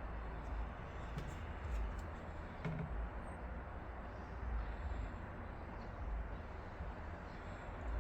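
Steady low background rumble with a few faint light clicks between about one and three seconds in.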